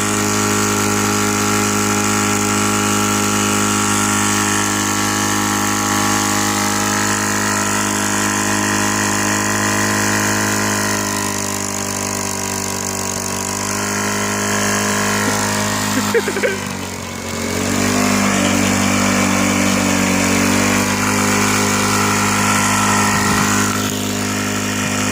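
Small single-cylinder go-kart engine running steadily after losing much of its oil, being run on purpose until it seizes. About sixteen seconds in, the engine speed briefly dips and stumbles, then it settles back to a steady run.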